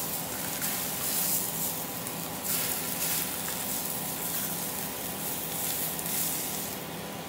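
Steaks and mushrooms sizzling in a hot griddle pan, a steady hiss that flares up briefly a few times in the first few seconds as the steak is lifted with a spatula.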